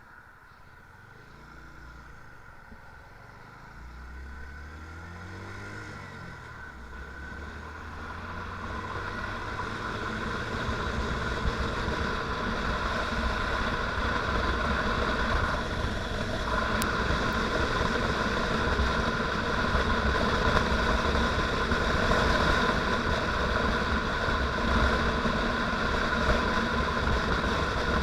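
Motorcycle engine pulling away and accelerating, its pitch rising in several steps through the gears, then running steadily at speed. The sound grows louder over roughly the first ten seconds.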